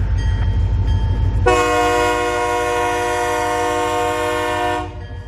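Diesel freight locomotive's air horn sounding one long held chord, starting about a second and a half in and stopping shortly before the end, over the low rumble of the passing locomotives.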